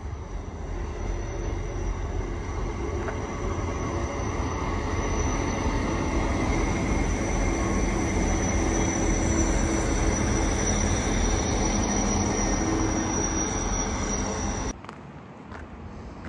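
Train running past on the track: a steady rumble of wheels on rail that builds over several seconds and holds, with a thin, steady high-pitched whine above it. The sound cuts off suddenly near the end.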